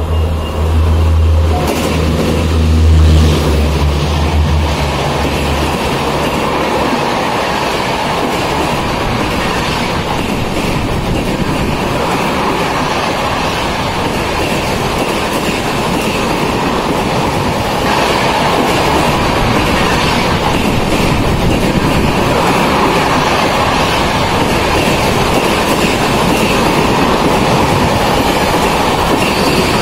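Mumbai local electric train running, a loud steady rumble and rattle of wheels on the track. A low electric hum sits under it for the first few seconds and then fades.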